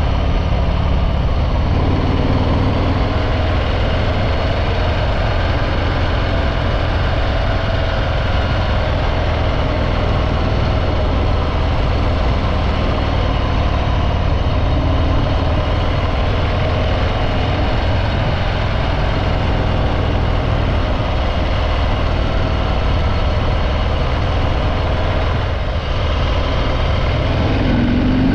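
Harley-Davidson Breakout 114's Milwaukee-Eight 114 V-twin, on its stock exhaust, running steadily while the bike is ridden, with a deep, even engine note.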